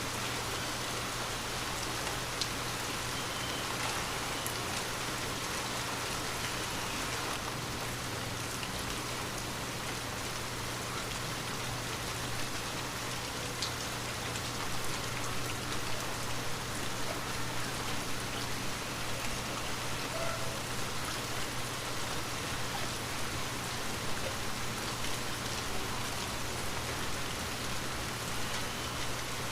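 Light rain falling steadily, with scattered drops pattering a little more unevenly in the second half.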